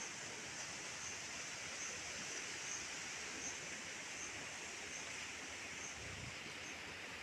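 Steady rain falling, an even hiss, with a faint high chirp repeating about every 0.8 seconds.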